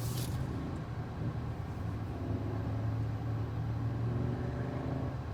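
Steady low drone of a car, heard from inside the cabin, with a faint higher hum joining in from about two seconds in for a few seconds.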